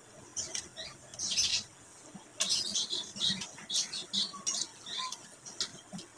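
Wet chewing and lip-smacking of people eating boiled chicken with their fingers, heard as irregular bursts of short, sharp mouth clicks and smacks.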